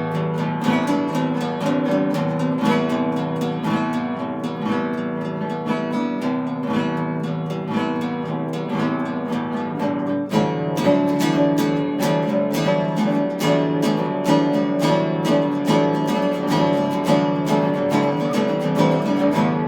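Instrumental acoustic guitar music: rapid plucked and strummed notes in a steady rhythm, moving into a new passage with stronger low notes about halfway through.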